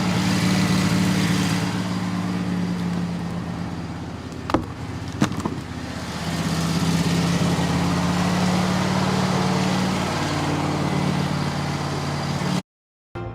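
Wood-Mizer LT15 portable band sawmill running steadily, its engine hum steady throughout, with two sharp knocks about four and a half and five seconds in. The sound cuts off abruptly near the end.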